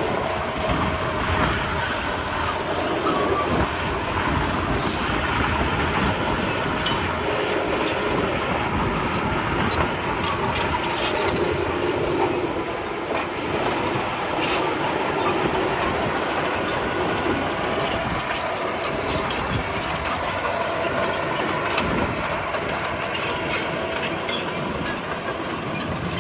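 Komatsu D31P crawler bulldozer working, its diesel engine running steadily while the steel tracks clank and squeal, with frequent short metallic clicks and knocks throughout.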